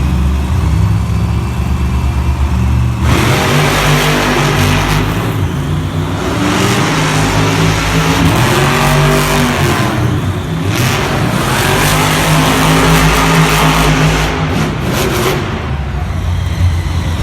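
Monster truck engines, supercharged V8s, running at a low rumble for about three seconds and then revving hard at full throttle, the pitch climbing and falling again and again with brief drops off the throttle.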